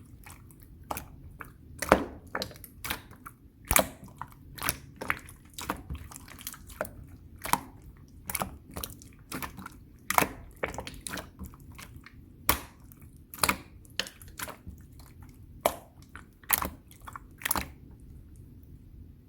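Clear slime being pressed and squished by hand, making irregular sharp, wet clicks and pops about one or two a second, over a faint steady low hum.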